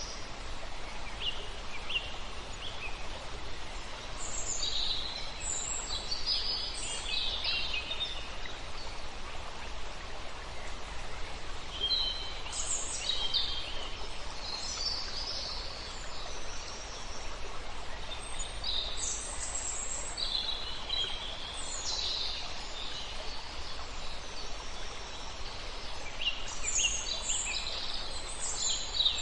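Several songbirds singing in short, high chirping phrases over a steady rush of flowing river water.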